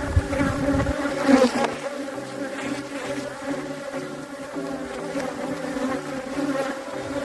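Honeybees from an opened hive buzzing in a dense, steady hum of many bees. A low rumble in the first second.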